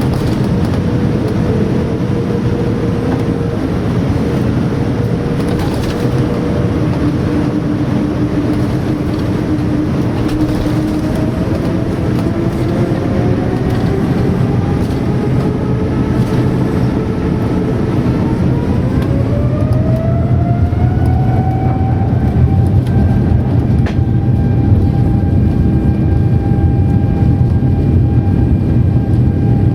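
Boeing 787-9's Rolls-Royce Trent 1000 engines heard from inside the cabin, spooling up: a steady rumble whose whine rises in pitch over several seconds about halfway through and then holds, louder, at high thrust, typical of the start of the takeoff roll.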